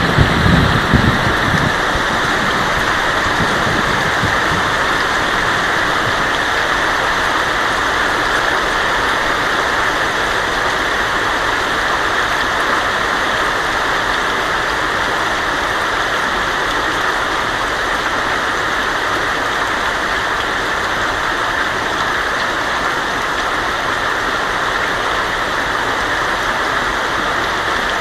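Heavy rain falling on a tin roof, a steady, even hiss. A low thunder rumble dies away in the first second or two.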